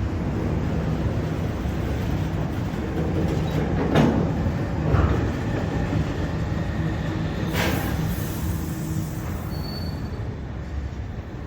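A train running through a station: a steady low rumble and hum, with a few sharp clicks along the way, easing off slightly toward the end.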